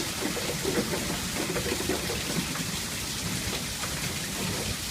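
Steady downpour of rain hissing and pattering on surfaces.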